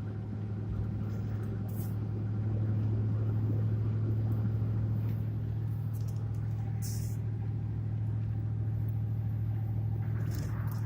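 Steady low drone of a truck's engine and road noise heard from inside the cab while driving, with a few brief faint clicks.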